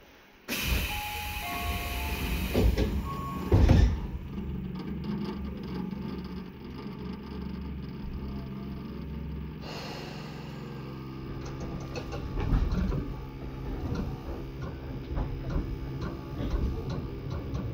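Inside a Tobu 10030 series electric train car, recorded right above its line breaker: train noise and steady low hum start abruptly about half a second in, with a loud thump a few seconds later.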